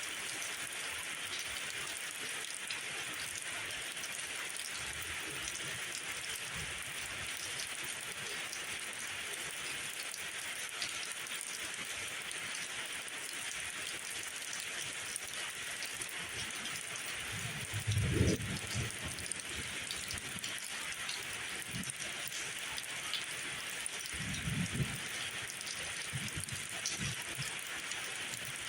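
Steady rain falling, an even hiss of many drops. Two brief low rumbles rise over it, about two-thirds of the way through and again a few seconds later; the first is the loudest moment.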